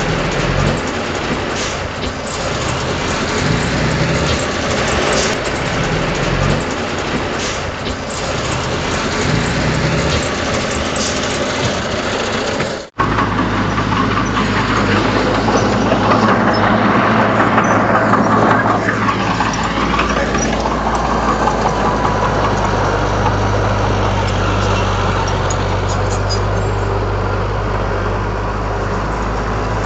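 Heavy machinery's diesel engine running loudly. It cuts off abruptly about thirteen seconds in and gives way to a steadier, lower engine drone.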